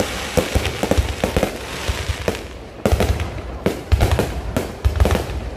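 Low-altitude fireworks going off: a quick series of booming bursts over continuous crackling, with a short lull just before the three-second mark, then the bangs come thick again.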